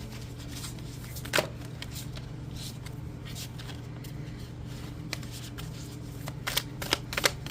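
Oracle cards being shuffled and handled, with scattered soft card clicks, a sharper snap about a second and a half in, and a quicker run of card flicks near the end, over a steady low hum.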